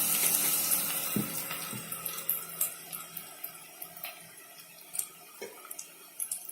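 Onion and spice masala frying in a pan: a steady sizzle that fades down over the first few seconds, with a few light clicks and taps.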